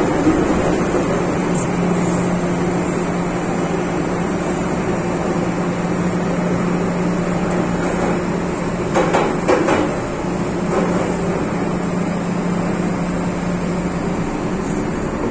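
MTR Tsuen Wan Line M-Train running on the line: a steady rumble with a low, even hum, and two brief clunks in quick succession a little past the middle.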